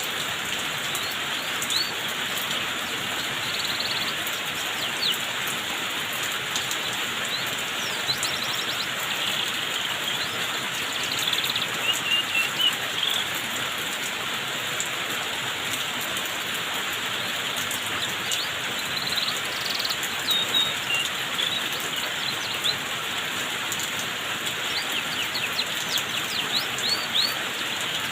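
Steady hiss of water falling like rain, with a canary giving short chirps now and then, in clusters around a third of the way in, two-thirds of the way in and near the end.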